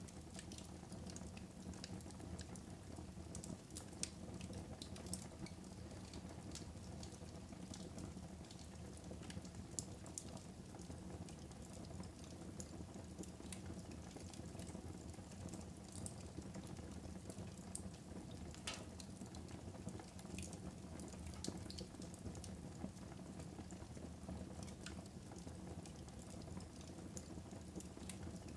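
Fire burning in a fireplace: a steady low rustle with irregular sharp crackles and pops scattered throughout.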